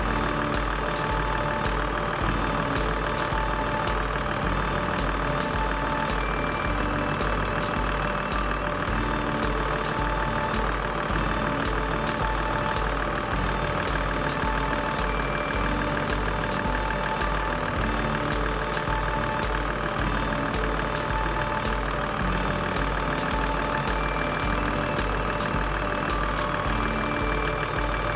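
Toyota Land Cruiser 80 engine idling steadily with an even, unchanging rhythm.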